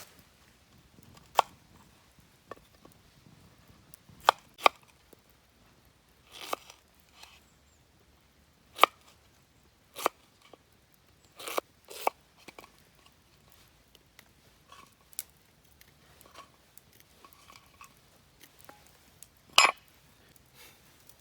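Scattered sharp clicks and knocks, a dozen or so at irregular intervals, the loudest near the end.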